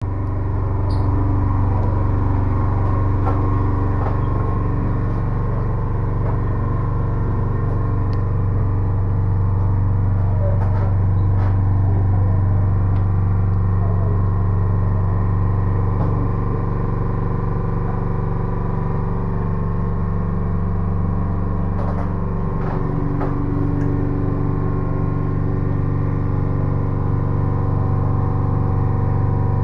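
The inboard engine of a Dudley Dix 57 charter yacht running steadily, heard close up in its engine compartment, with a deep, even hum and a few light clicks.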